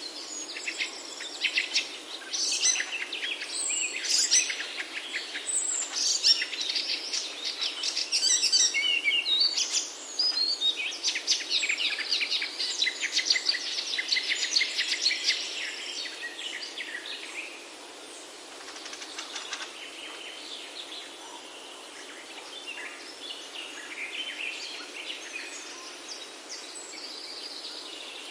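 Several songbirds singing and chirping together in quick trills and calls over a steady soft hiss. The singing is busiest in the first half and thins out after about two-thirds of the way through.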